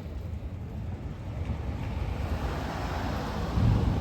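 Fireworks at a fireworks display: a continuous low rumble of bursts, a hiss that swells from about a second and a half in, and a dull boom near the end.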